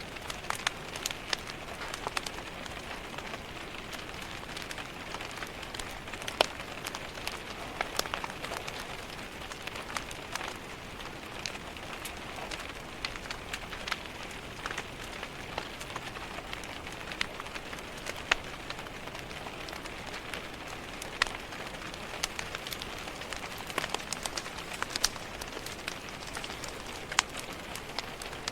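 Steady rain pattering against window glass, mixed with a crackling wood fire in a fireplace; sharp irregular pops and ticks are scattered throughout over the even hiss.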